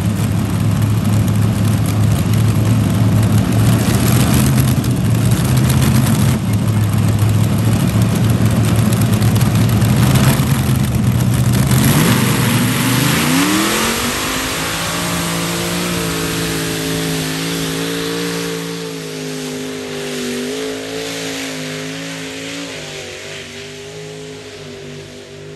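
Tractor engine running hard with a heavy low rumble, then revving up about halfway through, its pitch rising and holding high with a slight waver while it slowly fades toward the end.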